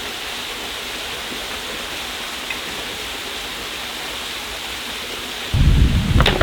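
Steady rushing of a waterfall. Near the end a sudden loud, deep rumble breaks in and keeps going.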